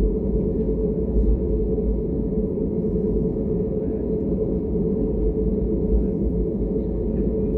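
Steady cabin noise inside an Airbus A320neo airliner: a deep, even rumble with a constant hum running through it.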